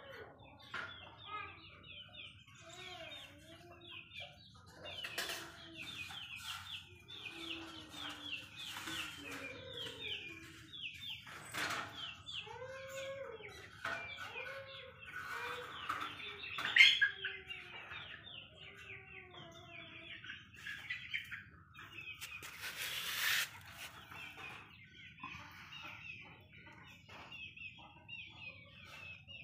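Birds chirping: a dense run of quick, high, falling peeps, with lower drawn-out rising-and-falling calls now and then and a few sharp knocks.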